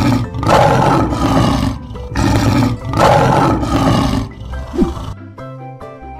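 Lion roar sound effect, two long roars one after the other, over light background music.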